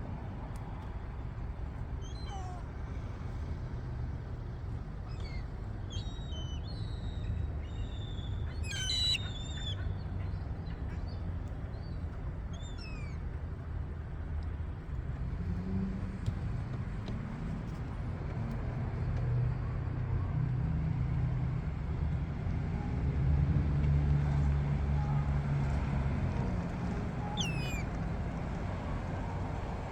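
Gulls calling, a string of short high calls in the first half and one more near the end, over a continuous low engine-like rumble that swells in the second half.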